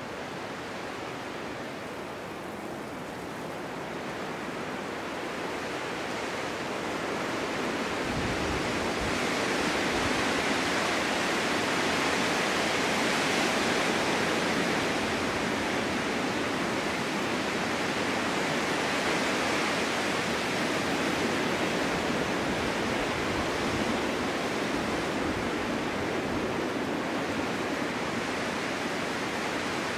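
Snowstorm wind blowing as a steady rushing noise, building into a stronger gust that peaks about ten to fourteen seconds in, then easing off a little.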